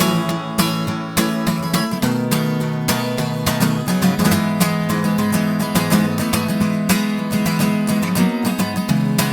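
Instrumental band passage led by strummed acoustic guitar, with steady chords and a regular rhythm.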